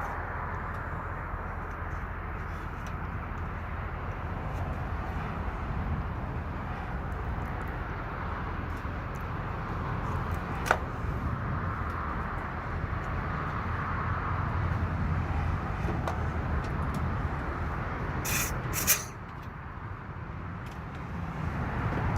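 Truck tractor unit's diesel engine idling steadily during the uncoupling of a semi-trailer, with one sharp click about halfway through and two short bursts of air hiss close together near the end.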